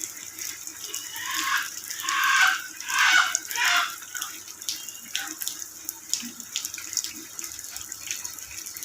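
Rain falling, with many small drop ticks over a steady hiss of running and splashing water. A louder, wavering sound rises over it from about one to four seconds in.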